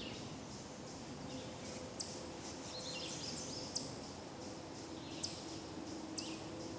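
Woodland birds calling: a sharp, high, downward-sweeping chirp repeated about every second and a half, with softer warbling about three seconds in. A faint steady hum runs underneath.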